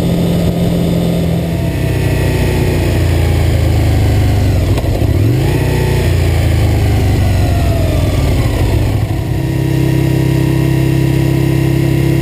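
2003 Aprilia RSV Mille's V-twin engine running on the move. The revs rise briefly about five seconds in, then fall away over the next few seconds and settle to a steady lower note near the end.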